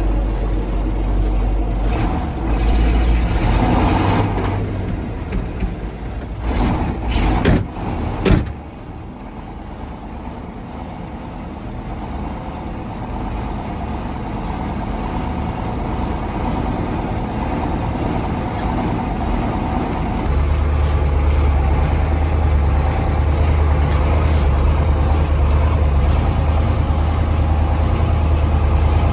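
The 1985 KAMAZ 4310 6x6 truck's V8 diesel engine is running under way off-road, with several knocks in the first third. The drone drops suddenly after the knocks and comes back louder and deeper about two-thirds of the way through.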